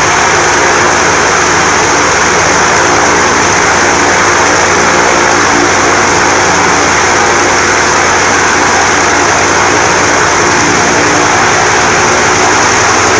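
An-2's ASh-62IR nine-cylinder radial engine running steadily with its propeller turning, loud and even. This is a ground run-up of the engine after the aircraft has stood idle for a long time.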